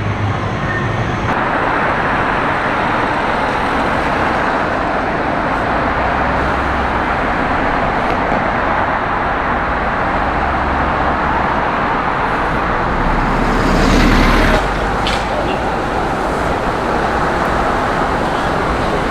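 Steady road traffic noise from passing cars. One vehicle swells louder about two-thirds of the way through, then cuts off sharply.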